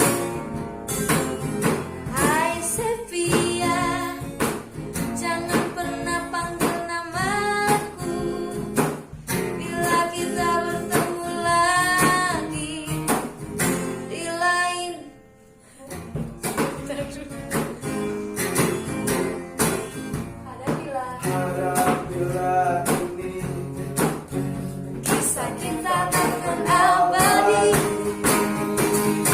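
A woman singing a slow pop ballad to a strummed acoustic guitar, with a brief pause about halfway through.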